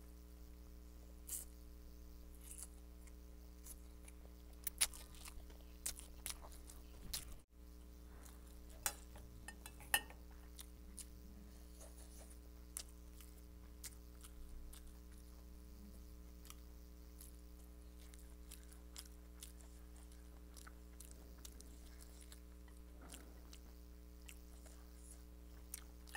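A person chewing a mouthful of Schezwan noodles, with scattered wet mouth clicks, most of them in the first ten seconds, over a faint steady hum.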